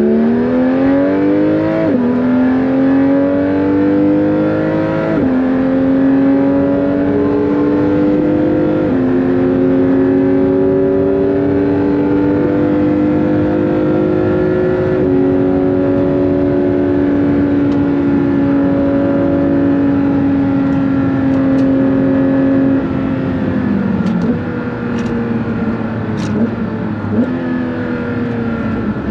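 Porsche 911 GT3 (992.2) naturally aspirated 4.0-litre flat-six heard onboard, pulling hard up through the gears: the pitch climbs and drops back at each upshift, about four times in the first fifteen seconds. It then holds a steady high note, falls away as the throttle is lifted a few seconds from the end, and climbs again on acceleration.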